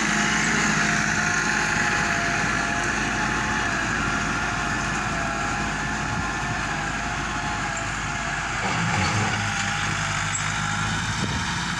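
Massey Ferguson 385 tractor's Perkins diesel engine running steadily, with a small rise in level about nine seconds in.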